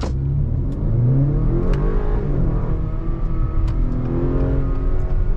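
2025 Acura RDX's 2.0-litre turbocharged four-cylinder engine pulling hard under acceleration in sport mode, heard from inside the cabin. Its pitch climbs, falls back once about halfway through as the automatic shifts up, then climbs again.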